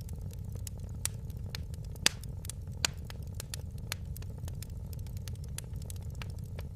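Wood fire in a fireplace crackling, with irregular sharp pops and snaps over a steady low rumble of the flames; the loudest pop comes about two seconds in.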